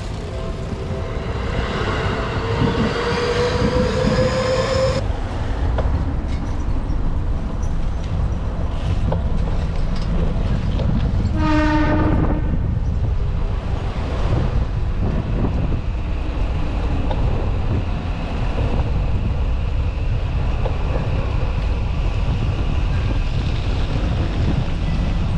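A train going by over a steady low rumble of wind and road noise. A rising motor whine comes early on, and a short horn note sounds about halfway through.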